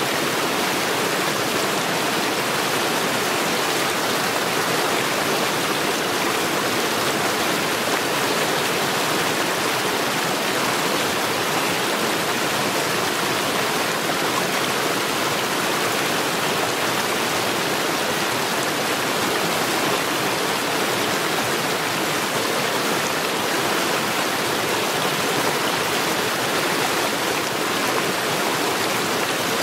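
Mountain stream rushing steadily over rocks, a constant even rush of water.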